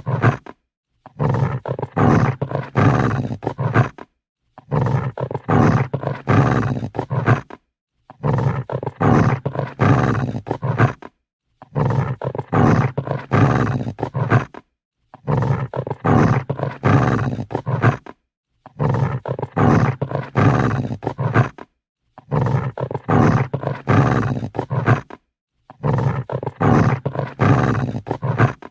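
Angry dog growling: the same rough, pulsing growl of about three seconds repeats about every three and a half seconds, with a short silence between.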